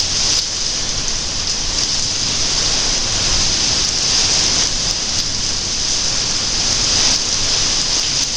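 Heavy monsoon rain falling steadily, a dense even hiss of rain on the ground and surfaces.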